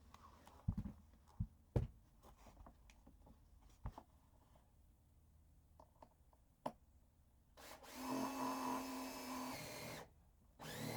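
Power drill driving a screw: a few light clicks and knocks of handling, then the drill motor runs steadily for about two and a half seconds, stops briefly, and starts again near the end.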